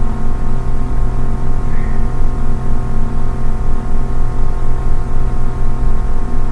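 Steady ambient drone music of many held tones, heavy in the bass, with a gently pulsing loudness.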